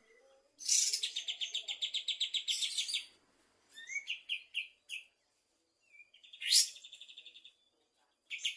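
Kapas tembak bulbul singing vigorously: rapid trilled phrases of quick repeated high notes, about ten a second, broken by short pauses, with a few separate rising notes in between and one sharp upward sweep the loudest.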